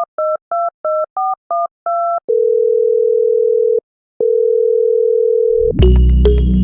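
Telephone keypad tones dialing a number in a quick run of two-note beeps, then two long steady call tones with a short break between them. Music with a heavy bass starts near the end.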